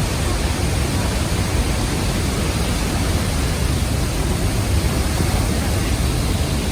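Damb'ri Waterfall heard close up: a loud, steady rush of falling water and spray with a deep low rumble.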